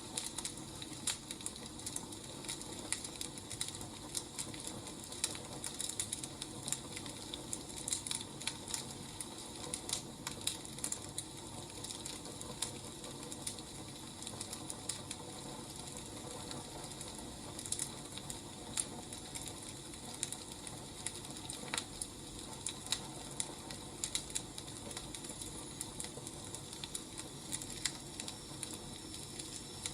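Wood fire crackling: irregular sharp snaps and pops over a steady soft hiss.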